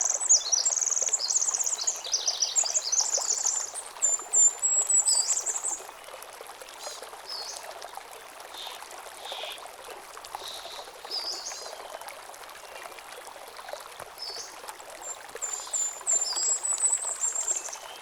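Small stream trickling and splashing over stones, with a songbird singing loud, rapid, high phrases for the first six seconds or so. After that only scattered softer chirps sound over the water, with a thin high trill near the end.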